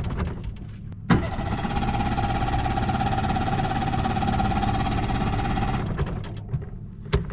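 Boat engine's electric starter cranking without the engine catching: a sharp click about a second in, then about five seconds of steady cranking with a whine, which dies away. The owner suspects he has flooded the engine.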